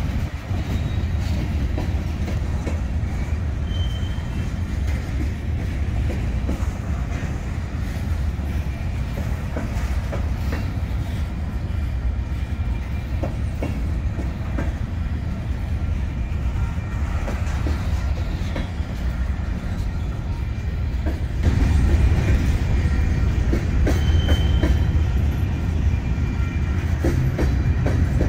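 Freight train of covered hopper cars rolling past at close range: a steady low rumble with wheels clicking over the rails, two brief high squeals, about four seconds in and near the end, and the rumble getting louder about three-quarters of the way through.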